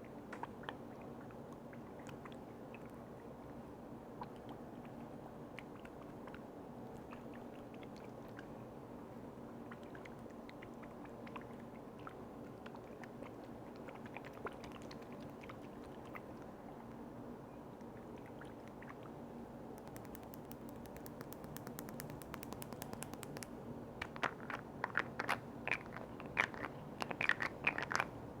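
Close-miked ASMR handling of small objects such as lids and containers: scattered faint clicks over a steady low hum. About twenty seconds in, a quick run of fine crackling starts, and from about twenty-four seconds dense, louder crackling taps follow.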